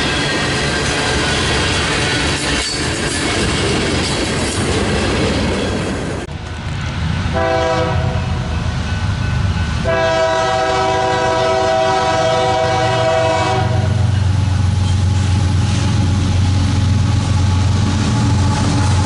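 Freight train diesel locomotive's air horn sounding two long blasts, then the locomotive's engine rumbling steadily as it comes up. The horn follows a loud, noisy stretch that breaks off about six seconds in.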